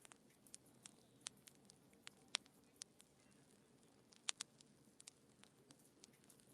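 Wood fire in a fireplace crackling faintly: scattered sharp pops at uneven intervals over a low hiss, the loudest a little over two seconds in and just past four seconds in.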